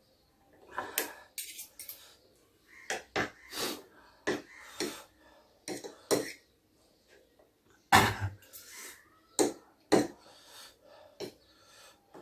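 Eating utensils clinking and scraping against a dish of noodles in a string of short, sharp clicks and knocks, the loudest about eight seconds in.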